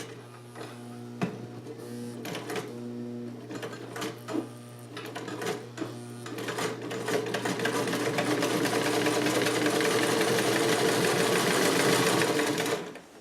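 Vintage Sovereign electric sewing machine stitching through leather: the motor hums while the needle works in slow, uneven spurts, then it runs steadily faster and louder for the second half before stopping suddenly near the end.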